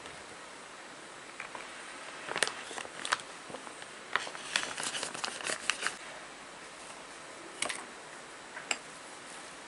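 Scattered light clicks and crinkles of small objects being handled, mostly in the first half, over a steady faint hiss.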